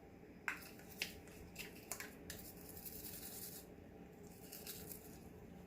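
Faint clicks and taps of small plastic toy dishes being handled, with two stretches of soft scrubbing hiss in the middle and near the end.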